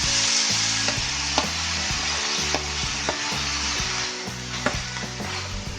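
Microgreens and ground coconut paste sizzling as they fry in hot coconut oil with spluttered mustard seeds and curry leaves. A spatula stirs them, with a few sharp clicks against the pan. The sizzle eases about four seconds in as the mixture cools the oil.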